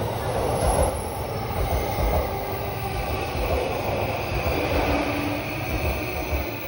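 JR Yamanote Line E235-series electric commuter train running past close by, its wheels giving a steady rumble on the rails.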